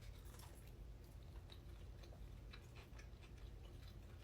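Faint chewing with small, scattered mouth clicks from someone eating food.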